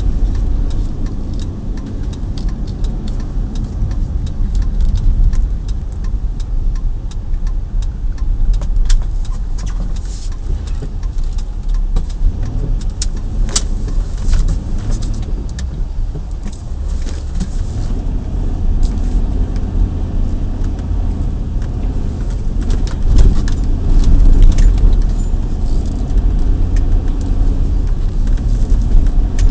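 Chevrolet Tahoe driving through deep snow, heard from inside the cab: a steady low rumble of engine and tyres, with scattered clicks and rattles.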